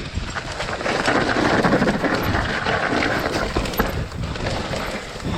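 Mountain bike being ridden downhill over wet, muddy ground: a steady rush of noise with irregular knocks and rattles as the tyres and bike hit bumps.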